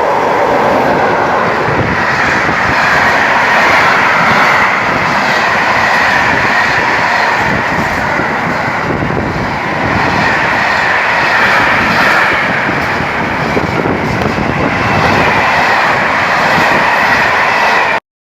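A train passing close by on the tracks: loud, steady wheel-on-rail running noise that cuts off abruptly near the end.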